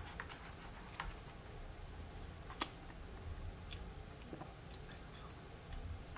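Faint chewing of a layered cupcake: soft, scattered mouth clicks and smacks, with one sharper click about two and a half seconds in.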